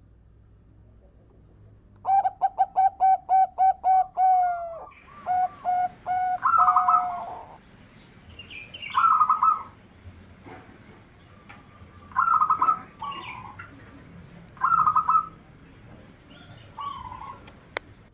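Zebra dove (perkutut) cooing: a fast run of short repeated staccato coos begins about two seconds in, followed by several shorter coo phrases a few seconds apart. A sharp click near the end.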